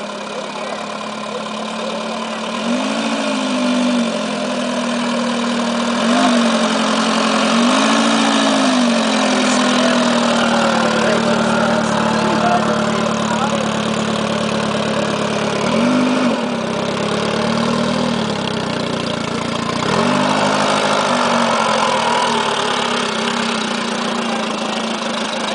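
1957 Nimbus motorcycle's air-cooled inline four-cylinder engine running steadily, its pitch rising and falling in short revs about half a dozen times.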